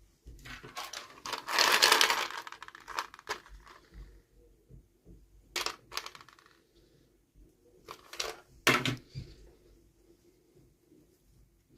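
Small plastic toy pieces and packaging being handled during an unboxing: a dense crackling rustle about a second and a half in, then a few sharp clicks of hard plastic parts knocking together.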